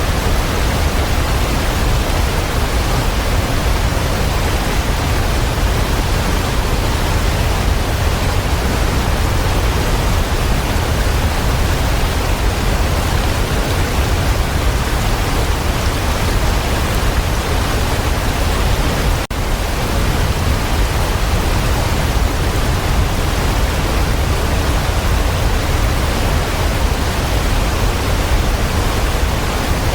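Waterfall rushing in a steady, even roar of falling water, heavy in the low end, with one momentary dip in level about two-thirds of the way through.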